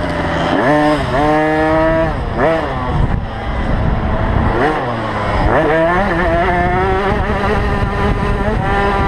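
A 50cc two-stroke motocross bike engine, revving hard and easing off over and over as the throttle opens and shuts around the track. Its pitch climbs and drops several times.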